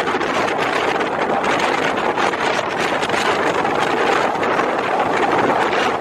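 Steady rush of wind and running noise from a moving passenger train, heard at an open carriage window, with wind buffeting the microphone.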